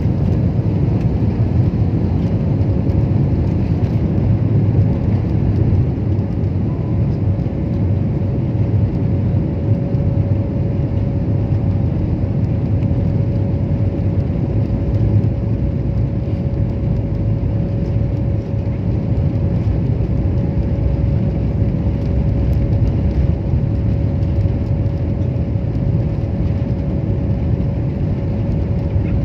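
Airbus A320-232 jet engines (IAE V2500) at takeoff power, a loud steady rumble with a constant hum above it from about two seconds in.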